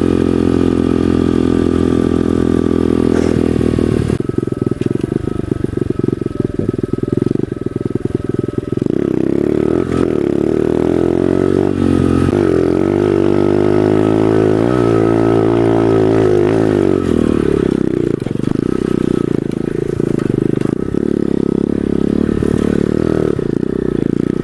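Pit bike's small single-cylinder engine running under way. It holds a steady pitch for the first few seconds, drops off suddenly about four seconds in, then revs rise and fall repeatedly through the middle before settling.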